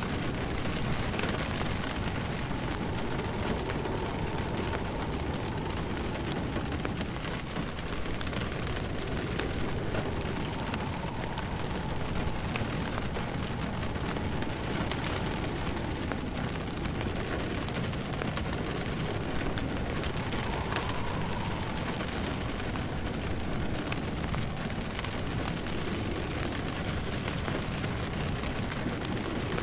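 Steady rain falling on a surface, mixed with a wood fire crackling in a fireplace, with small pops scattered throughout.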